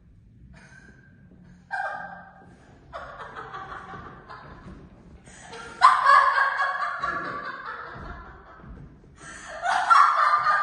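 Loud laughter in several bouts, the strongest about six seconds in and another near the end, each trailing off.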